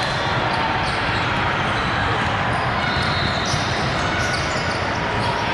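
Steady din of a large hall full of volleyball play: crowd chatter with balls being hit and bouncing on the court floor, and short high squeaks here and there.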